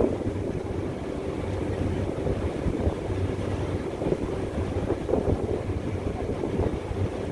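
Boat engine running steadily as a low hum, with wind buffeting the microphone.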